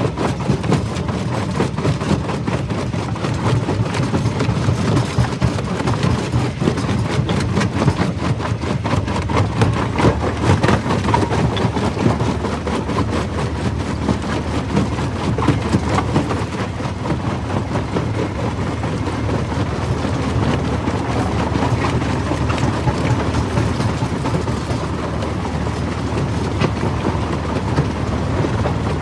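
Jaw crusher running under load, a steady low machine drone with dense, irregular cracking and knocking as stone is crushed between its jaws.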